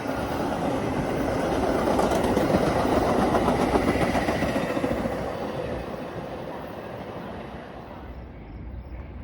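A train passing by: its rumble and wheel noise swell to a peak a couple of seconds in, then fade away as it recedes.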